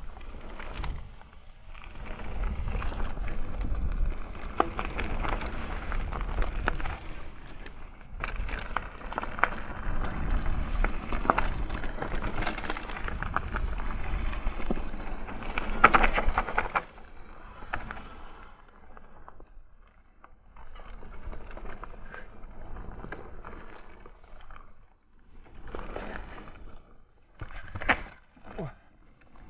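Mountain bike ridden along a rough dirt trail: tyre noise with frequent knocks and rattles from the bike over bumps, louder for the first half, then quieter with a few sharp knocks near the end.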